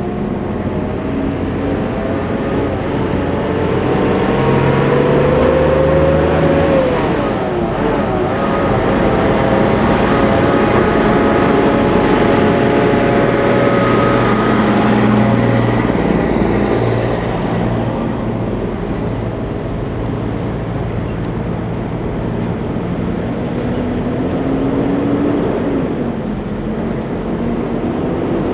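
Freightliner Cascadia semi trucks driving past, their diesel engine drone and tyre roar swelling. The engine pitch drops sharply as one goes by about seven seconds in, and again near the end.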